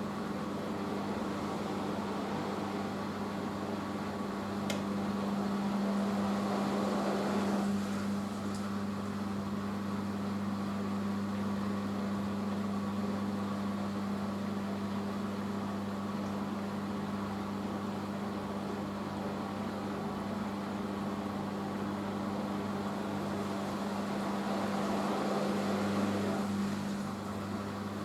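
Hoover H-Wash 500 washing machine running its rinse spin: a steady motor hum with the drum turning, swelling louder for a few seconds about a quarter of the way in and again near the end.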